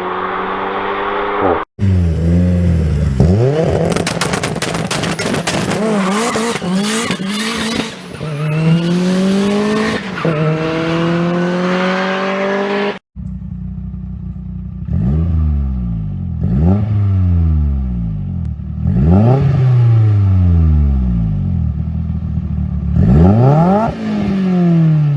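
Inline-engined cars accelerating hard in three separate clips. The engine note repeatedly climbs and then drops at each gear change. The middle clip is full of crackling and popping.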